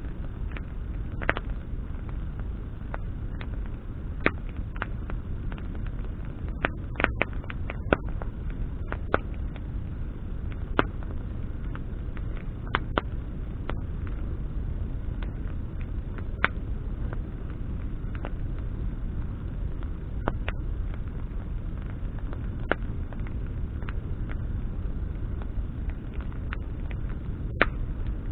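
Wood campfire burning, its branches crackling with sharp irregular pops, a quick run of them about seven seconds in, over a steady low rumble.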